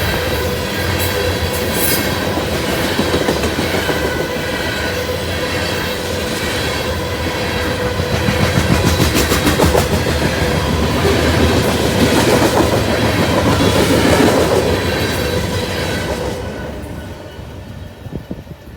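Grain train's freight cars rolling past, wheels clattering over the rail joints, with a faint steady ringing from the wheels on the rails. The sound fades away about three-quarters of the way through.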